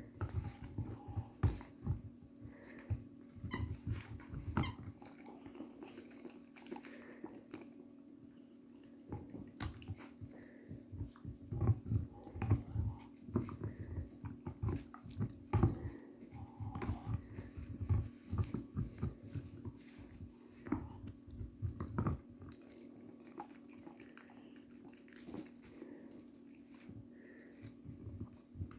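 Dogs chewing and gnawing on their toys: irregular clicks, crunches and rustles, coming thick and fast in bursts.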